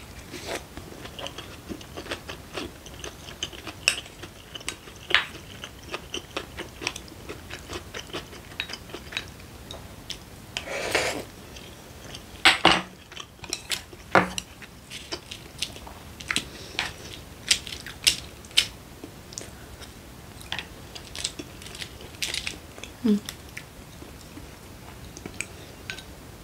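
A person eating: chewing and mouth sounds close to the microphone, with wooden chopsticks clicking against a small dish at irregular moments.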